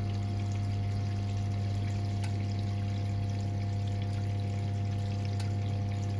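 1978 Siemens WA4600 washing machine moving water, a steady electric hum with water running through it and faint ticks. This is either the drain pump or the water inlet valve at work.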